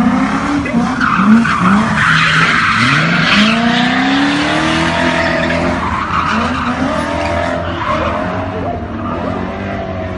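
A car drifting: its engine revs up and down over and over while the tyres squeal and skid on the tarmac.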